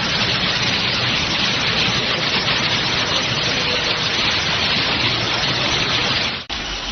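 Loud, steady rush of water, cut off abruptly about six and a half seconds in and followed at once by a quieter rush of water.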